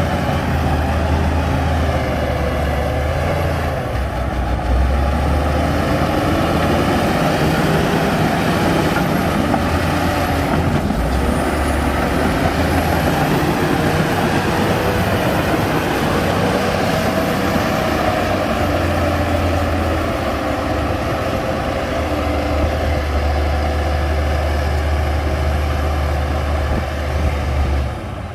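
Heavy diesel earthmoving machinery running steadily, its engine pitch rising and falling slightly as it works under load.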